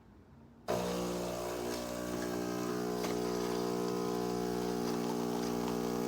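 Philips 3200 Series espresso machine's pump kicking in suddenly about a second in and running with a steady buzzing hum.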